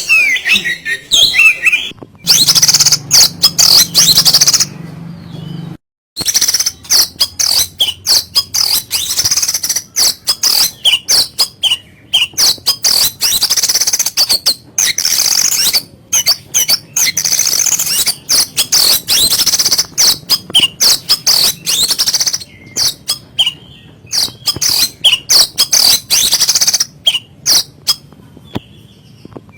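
Oriental magpie-robin (kacer) singing a fast, harsh song of sharp, high chattering notes in rapid series, broken by a few abrupt cuts.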